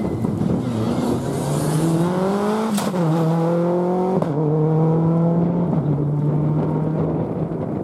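A four-wheel-drive rally car accelerating hard through the gears: the engine note climbs, then drops sharply at each upshift, three times. There is a sharp crack at the first shift.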